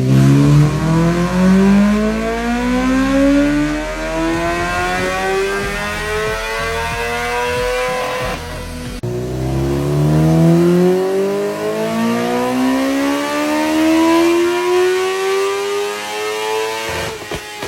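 1000cc motorcycle engine accelerating hard, its pitch climbing steadily for about eight seconds, then breaking off and climbing again in a second long run.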